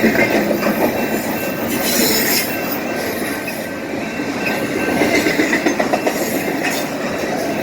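Freight train cars rolling past at close range, a steady loud rumble of wheels on rail with occasional clacks over rail joints and a faint high wheel squeal.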